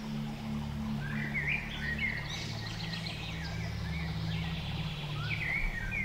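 Birds chirping and singing, with short rising and falling calls starting about a second in, over a low steady hum.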